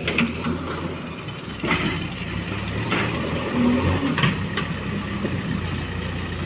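Diesel engine of earthmoving machinery running steadily at low speed, with a few short knocks over it.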